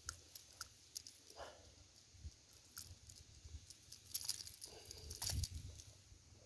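Faint, irregular clicking and rattling of a spinning reel and rod being worked during a slow, twitching lure retrieve, with a few soft low knocks.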